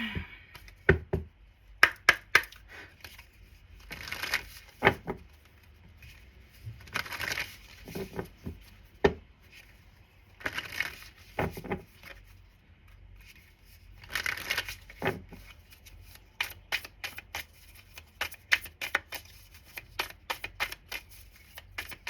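Tarot cards being handled and shuffled on a table: short bursts of riffling cards mixed with sharp clicks and taps as cards are gathered and set down, coming thicker near the end.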